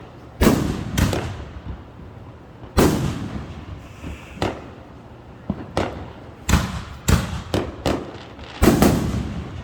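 Consumer fireworks going off: about a dozen sharp bangs at irregular intervals, each trailing off, with several coming in quick succession near the end.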